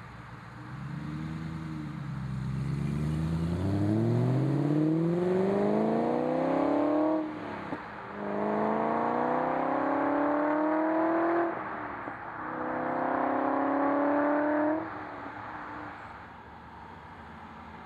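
2007 Aston Martin V8 Vantage's 4.3-litre V8, breathing through a Fabspeed X-pipe and high-flow sportcats, pulling away hard under full throttle. After a short blip near the start, the engine note climbs through three gears, with upshifts about seven and eleven and a half seconds in, then drops away after about fifteen seconds.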